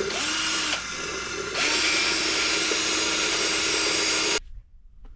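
Power drill motor spinning up briefly, pausing, then running steadily for about three seconds before cutting off suddenly, scrubbing the honing dust out of a new cylinder bore with soapy water.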